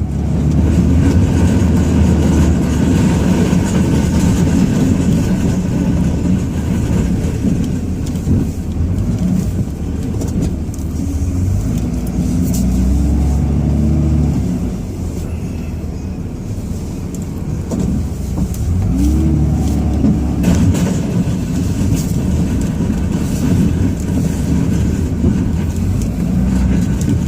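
Ram 2500's Cummins turbo-diesel inline-six running under plowing load, heard from inside the cab. The engine revs up and eases off a few times, most clearly around the middle and again about two-thirds of the way through.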